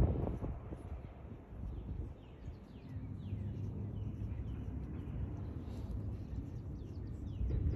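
Faint, short, falling bird chirps repeating over a steady low rumble of outdoor background noise.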